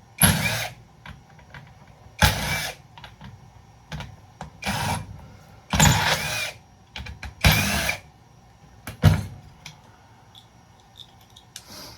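A handheld power tool, such as a drill or driver, runs in about six short bursts a second or two apart, as fasteners are worked loose during the teardown of a breaker panel.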